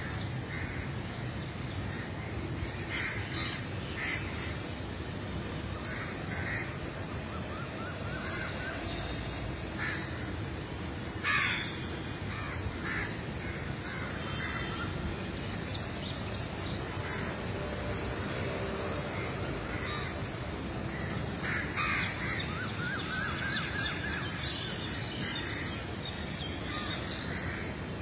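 Birds calling outdoors, short calls every few seconds with a few close together around the middle, over steady background noise.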